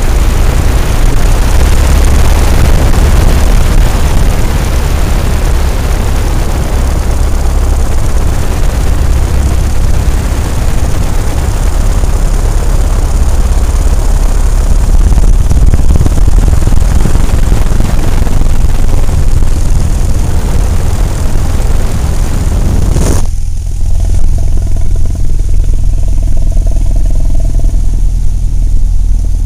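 Cessna 172's piston engine and propeller droning steadily in the cabin, with a loud rush of airflow over it. About two-thirds of the way through, a click and the rushing noise drops away sharply, leaving a lower, steady engine drone.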